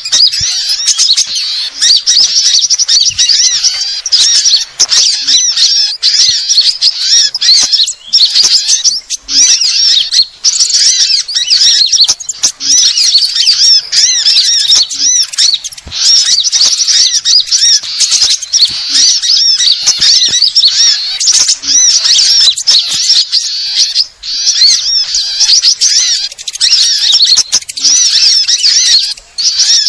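Loud, dense chorus of many small songbirds chirping and twittering at once, high-pitched and unbroken. It is a bird-lure (pikat) recording made to draw small birds in.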